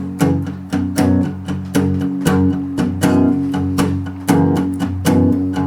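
Guitar strummed in a steady rhythm, about three to four strokes a second: the instrumental intro of a country song before the vocals come in.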